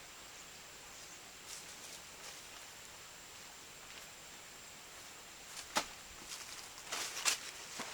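Faint outdoor background hiss with a thin, steady high-pitched tone, then a few sharp snaps or knocks in the last two seconds.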